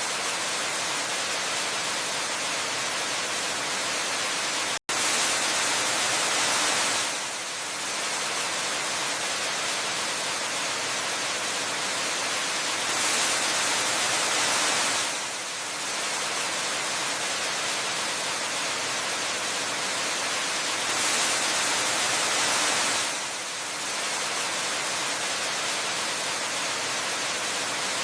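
Steady hiss of falling water from a waterfall, bright and hiss-heavy with little low rumble. It swells slightly and dips back about every eight seconds, and cuts out for an instant about five seconds in.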